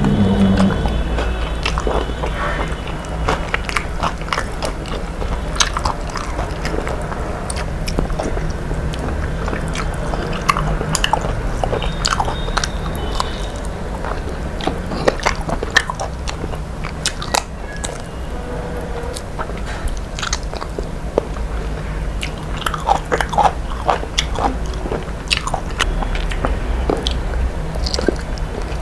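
A person eating close to the microphone: chewing and biting food, with many short crunches and clicks scattered throughout.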